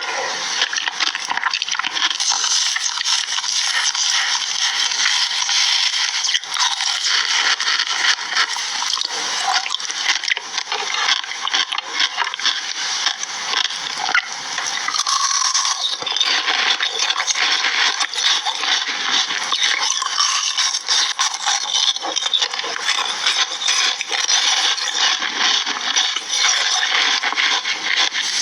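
Food frying in hot oil: a steady, dense crackle and sizzle.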